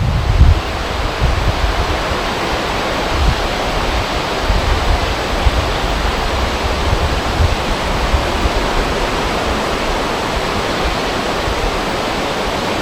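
Wind over a river: a steady rushing hiss of wind and water, with a flickering low rumble of wind buffeting the microphone.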